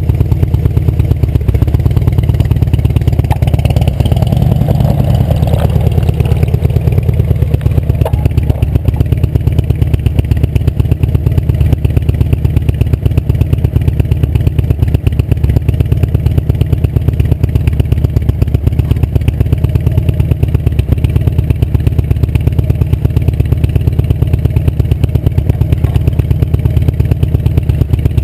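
Steady, loud wind rumble on the microphone of a camera riding on a moving bicycle, with a brief swell of passing traffic about four seconds in.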